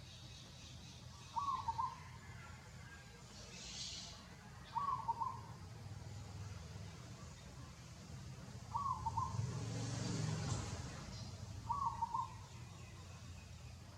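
A bird calling over and over, a short burst of hooting notes repeated four times about three to four seconds apart. A louder rushing noise swells and fades about two-thirds of the way through.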